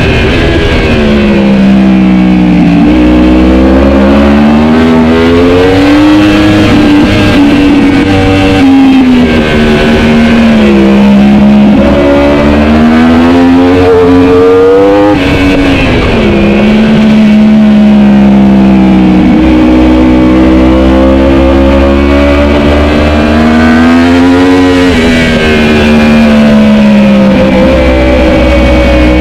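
Racing superbike engine under full race load, its revs climbing and falling again and again as it accelerates, shifts and slows for corners, with sharp drops in pitch about halfway through and again near the end.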